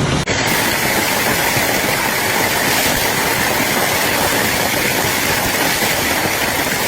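Hailstorm: hail and rain pelting down in a loud, dense, steady rush of impacts, starting abruptly a moment in.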